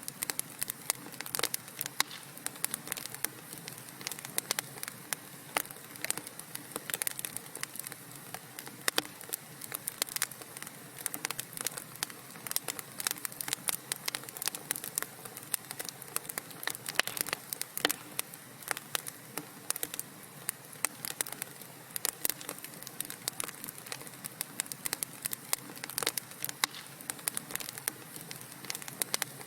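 Wood fire in a fireplace crackling: many irregular sharp pops and snaps over a soft steady hiss of burning logs.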